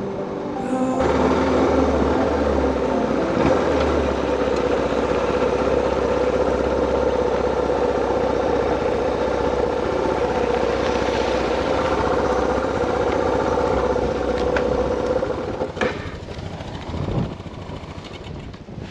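Suzuki DR650 single-cylinder motorcycle engine running steadily, dropping away about 16 seconds in.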